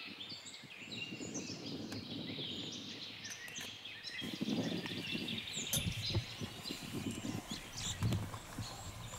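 Several wild birds chirping and calling over one another, with short repeated notes and trills, over a low, uneven background rumble that grows louder from about halfway through.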